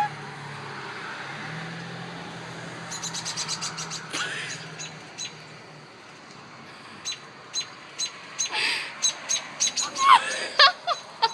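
Parent bird chirping near its nest of babies: a quick run of clicking notes about three seconds in, then sharp single chirps about twice a second through the second half.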